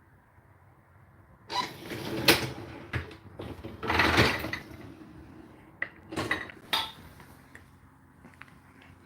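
Clatter and knocks of a dishwasher's racks and dishes being handled: a run of loud, sudden bursts and clicks over about five seconds, starting about a second and a half in.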